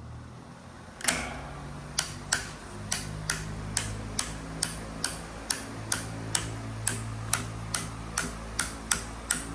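Oscillating electric fan switched on about a second in, its motor humming steadily while a sharp metal knocking repeats about two to three times a second. The knocking is the oscillation mechanism's metal piece striking the central metal shaft because the mechanism was assembled upside down.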